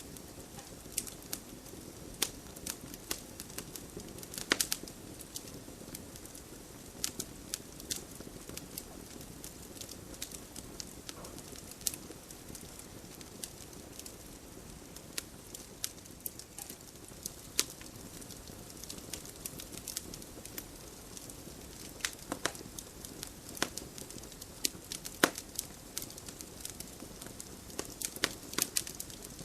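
Wood fire burning in a fireplace: a steady low rush of flames with irregular sharp crackles and pops, a few much louder snaps scattered through.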